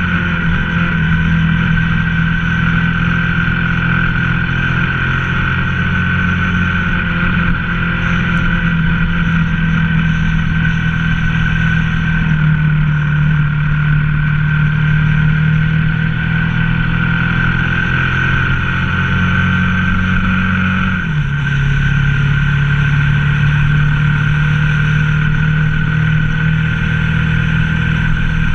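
Ducati ST4S motorcycle's V-twin engine running steadily under way, its pitch holding with a slight dip about twelve seconds in, then dropping suddenly about twenty-one seconds in and holding at the lower pitch.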